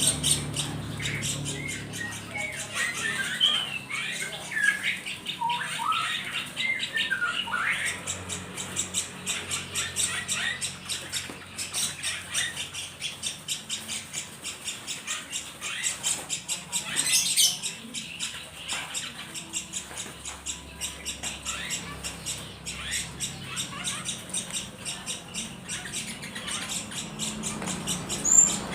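Small birds chirping and squawking, many short notes rising and falling in pitch, over a dense fast chatter of high-pitched ticks.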